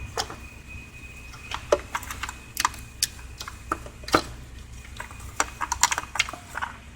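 Irregular light clicks and taps of the crankcase ventilation filter cover and its bolts being handled and set in place on a Cummins 6.7 diesel engine, over a faint steady hum.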